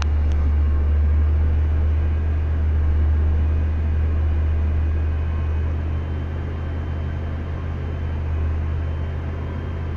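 Van engine running steadily at a slightly raised idle, held on a little throttle so its 90-amp alternator can carry a 1500-watt inverter powering a space heater on high. A steady low hum that eases off slightly in the second half.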